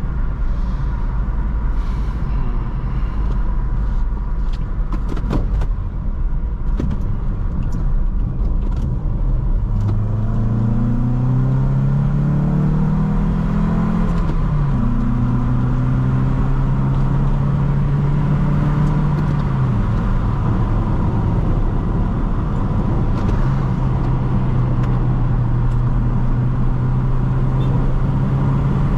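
2004 Toyota Corolla's four-cylinder engine and road rumble heard from inside the cabin while driving. A few sharp clicks at first, then the engine climbs in revs, drops suddenly at a gear change about halfway through, and settles to a steady pitch that dips and then steps up again near the end.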